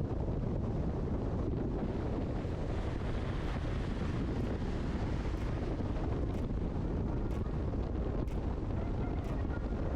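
Wind buffeting the microphone over the steady rush of engine and water from a boat under way at sea.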